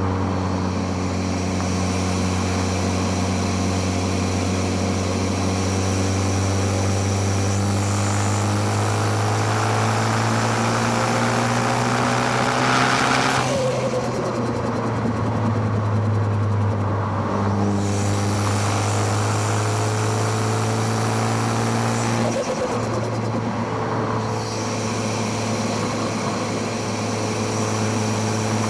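2013 Ford Focus ST's turbocharged 2.0-litre four-cylinder engine pulling under load, heard from near the intake and exhaust. Its revs climb for about 13 seconds, then fall away sharply. They climb again and drop once more about 22 seconds in.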